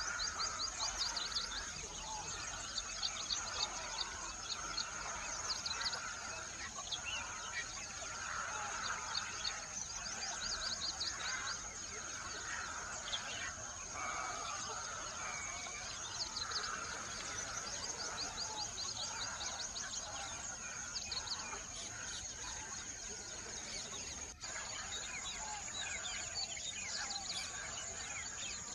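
Several wild birds chirping and trilling, with quick runs of high notes repeating every second or two over lower warbling calls. A steady high-pitched whine runs underneath throughout.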